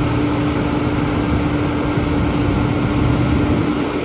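Heavy farm machinery running steadily: a loud, even engine noise with a constant hum and no change in speed.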